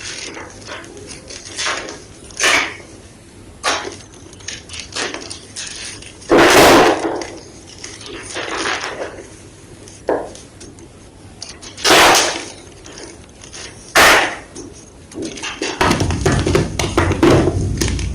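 White gym chalk being crunched and crushed: a string of separate sharp crunches and snaps. About two seconds from the end these give way to a dense, continuous crumbling crunch.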